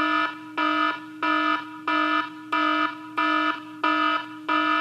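Electronic alarm beeping loudly in an even rhythm, about one and a half beeps a second, over a steady lower tone.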